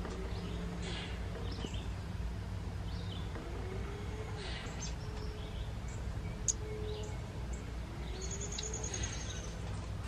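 Faint wild birdsong: scattered high chirps, a quick trill near the end, and a few low rising-and-falling calls, over a steady low hum.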